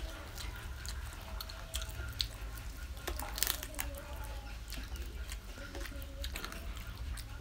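Close-up eating sounds: biting into and chewing pickled chicken feet, with scattered crunchy clicks and smacks of skin and cartilage.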